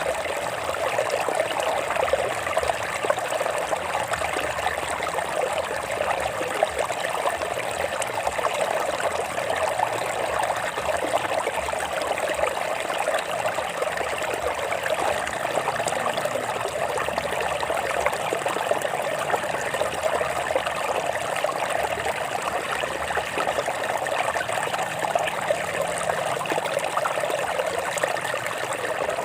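Water flowing and trickling over rocks in a stream, a steady babbling rush with no break.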